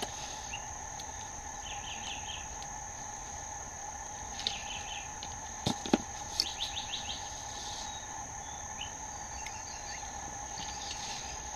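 Steady, continuous insect chorus of crickets trilling. A few short runs of rapid chirps break through it, and there are two sharp clicks about halfway through.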